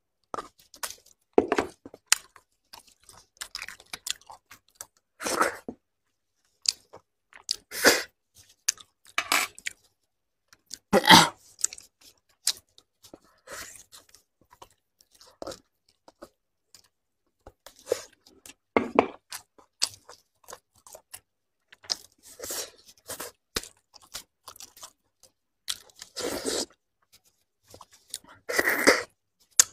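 Close-miked eating sounds: a person biting and chewing spicy braised beef bone marrow in short, irregular bursts with quiet gaps between.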